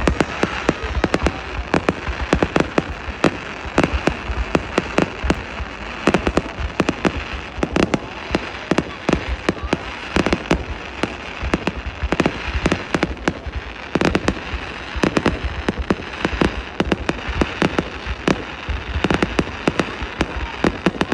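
Fireworks display going off in a dense, unbroken series of bangs, several a second, over a continuous crackling haze.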